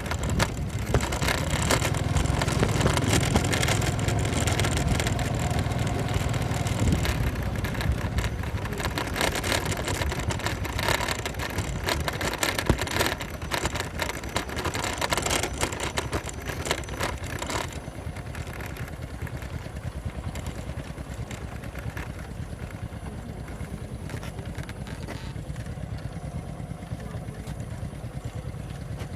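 Motorcycle riding over a rough dirt road: engine and road noise with many rattles and knocks. About two-thirds of the way through it suddenly gets quieter and smoother.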